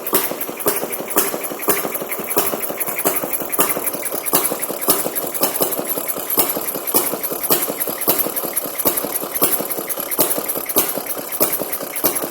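Elgin Comet two-stroke, air-cooled, twin-flywheel antique marine engine running, firing in a steady string of sharp pops.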